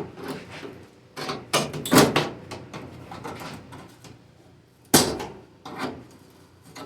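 Sheet metal of a Jeep body panel knocked and scraped as it is worked loose from its spot welds: a cluster of scraping knocks about one and a half to two seconds in, then one sharp bang about five seconds in, the loudest, and a smaller knock just after.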